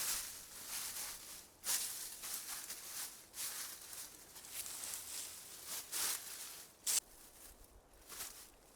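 Irregular rustling and crackling of dry leaves and twigs on the forest floor as branches are handled and stepped on, with a few sharp clicks.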